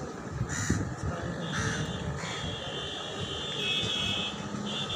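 A bird gives two short calls about a second apart near the start, over a steady high whine and a low rumbling background noise.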